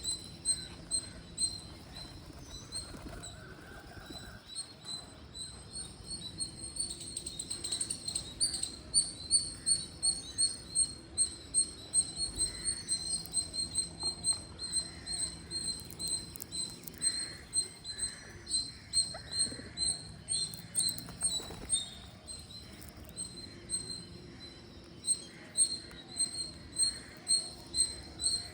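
Green parrots chirping: a long, even run of short high calls, about two a second, louder through the middle and softer near the start and end.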